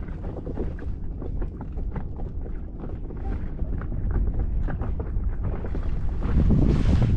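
Wind buffeting the microphone in a low rumble, growing stronger near the end, with scattered small taps and knocks.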